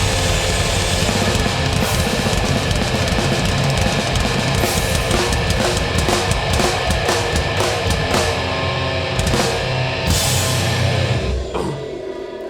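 Live hardcore band playing loud, with distorted guitars and pounding drums and cymbal hits. About eleven seconds in the full band stops and a lower ringing note is left sustaining.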